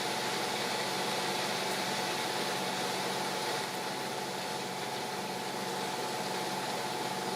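Steady hiss of rain falling, with a steady low hum underneath.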